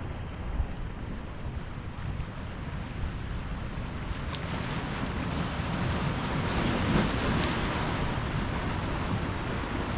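Ocean surf washing onto the shore as a steady hiss and rumble, swelling as a wave breaks about seven seconds in.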